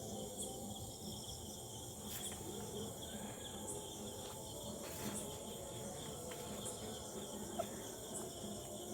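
Night insects, crickets, chirping steadily in a faint continuous trill, with a short higher chirp repeating about every second and a half. A single brief, sharper note sounds a little before the end.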